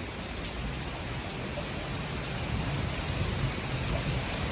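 Torrential thunderstorm rain pouring down in a steady hiss, with a low rumble of wind and distant thunder underneath.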